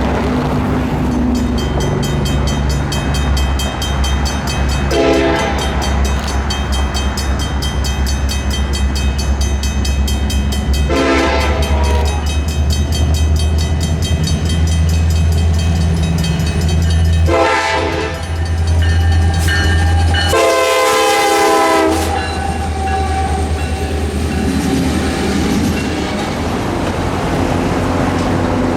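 Diesel locomotive horn sounding four blasts over the steady rumble of the running engine, the last blast the longest and loudest, in the long-long-short-long pattern of a grade-crossing warning.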